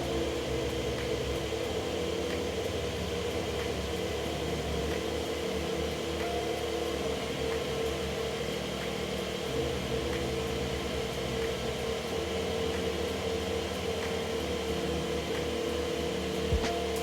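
Porsche 911 (992) Carrera 4S's 3.0-litre twin-turbo flat-six idling steadily, a smooth even hum with no revving. A few light clicks near the end.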